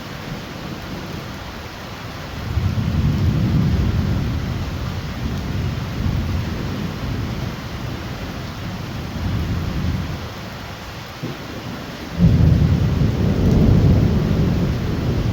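Heavy rain falling steadily during a thunderstorm, with rolling thunder. A rumble builds about two and a half seconds in and fades. A louder peal breaks in suddenly near the end and keeps rumbling.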